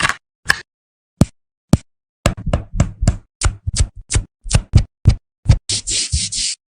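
A series of sharp clicks and knocks from small hard objects, a few at first and then several a second, ending with a brief hissing scrub.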